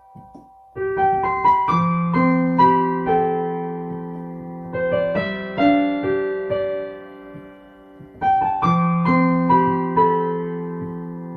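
Slow, gentle piano music: notes struck one after another in rolling patterns, each ringing and fading. It starts just under a second in, thins out around the middle, and a new phrase begins near the end.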